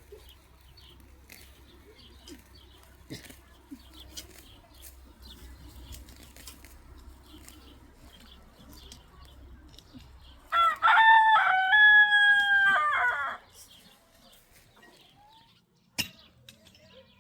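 A rooster crowing once, a loud call of about three seconds that starts about ten seconds in, over faint background. A single sharp click comes near the end.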